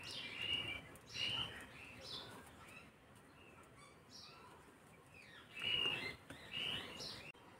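Small birds chirping: short, high calls repeated at irregular intervals, some of them a little louder about a second in and again around six seconds.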